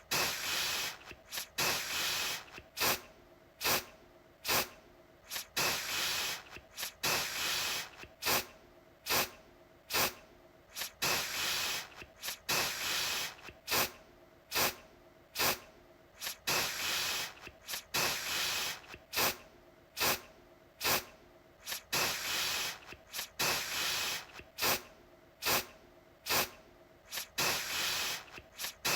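Aerosol deodorant can sprayed in short repeated bursts, about one every second or so, each opening with a sharp click and followed by a brief hiss.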